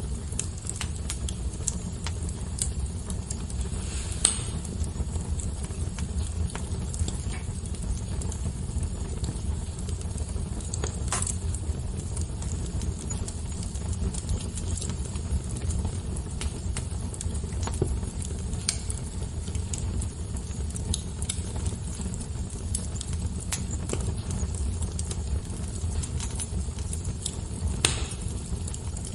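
Fire crackling steadily over a low rumble, with many small snaps and a few louder pops, about four seconds in, about eleven seconds in and near the end.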